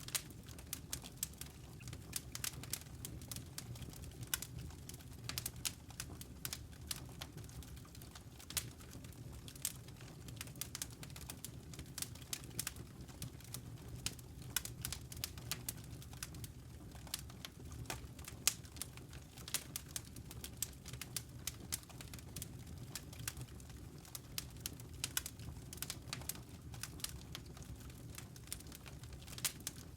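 Wood campfire crackling: irregular sharp snaps and pops, several a second, over a steady low rumble.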